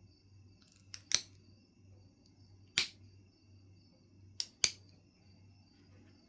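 Knife River Flint being knapped: three sharp clicks as flakes snap off the stone, the first and third each with a lighter tick just before it.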